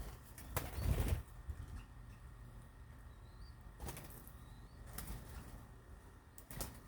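Birds flapping their wings, with a loud flurry about a second in, a few sharp clicks later on, and faint short chirps.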